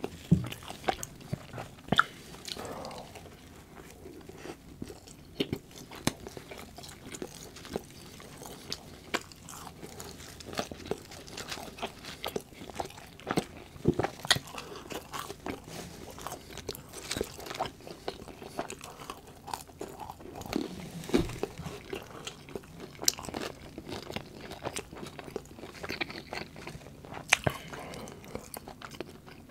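Close-miked eating of fast food, fries included: chewing with many irregular sharp crunches.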